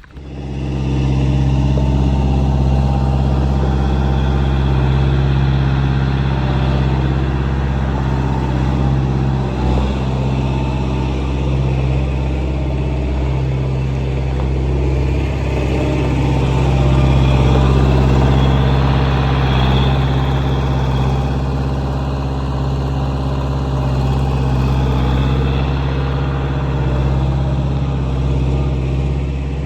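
A Swinger 3000 compact wheel loader's 4-cylinder John Deere engine running at a steady speed, swelling slightly about halfway through.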